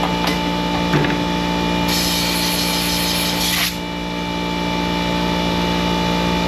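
Troy-Bilt pressure washer's small gas engine running at a steady speed, with a hiss of spraying water or escaping pressure for about two seconds that cuts off suddenly. The pump is not building pressure and is leaking.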